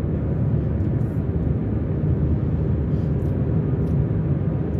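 Car driving on a freeway: a steady low rumble of engine and road noise.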